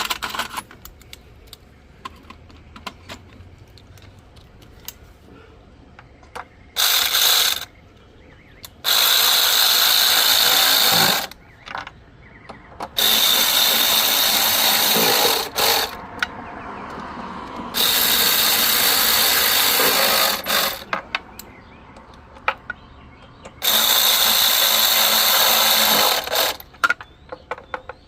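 Handheld power tool, likely a cordless ratchet, running on fasteners in five separate bursts of about one to three seconds each, with small clicks and knocks in the pauses between them.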